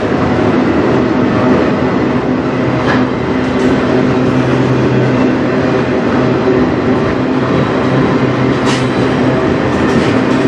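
Autorack freight cars rolling past at close range: a steady, loud rumble of steel wheels on the rails, with a couple of brief high-pitched sounds about three and nine seconds in.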